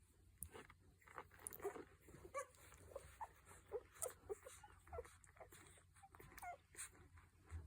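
A week-old groodle puppy makes faint whimpers and squeaks in its sleep while dreaming of suckling. The short, scattered squeaks are mixed with small clicks.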